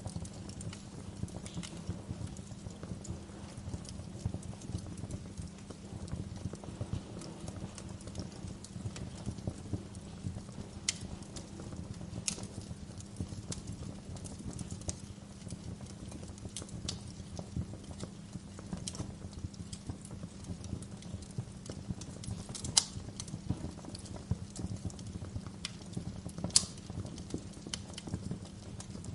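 Wood fire crackling in a fireplace: a dense run of small crackles over a low, steady rumble, with a few sharper pops, the loudest two near the end.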